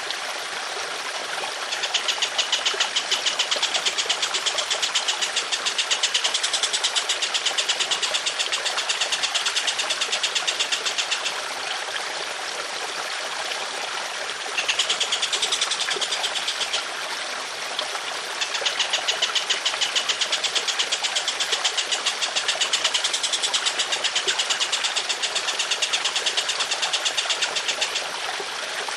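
A songbird giving long, rough, rapid-fire trills of quickly repeated notes in runs several seconds long, over steadily trickling water. The bird starts about two seconds in, breaks off for a few seconds near the middle, then starts again and keeps going.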